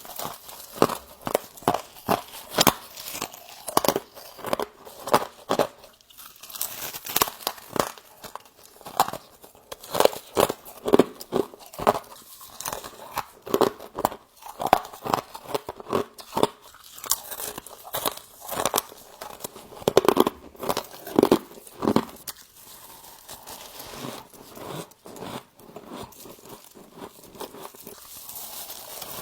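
A person biting and chewing humidifier-grown freezer frost close to the microphone: many crisp, irregular crunches in quick succession.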